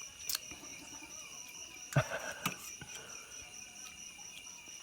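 Steady high-pitched chirring of crickets, with a few short clicks or knocks, the sharpest about two seconds in.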